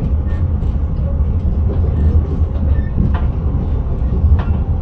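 Intercity train running along the line, heard from the driver's cab: a steady, loud low rumble of wheels on rails and running gear. Two short high squeaks come about three seconds and four seconds in.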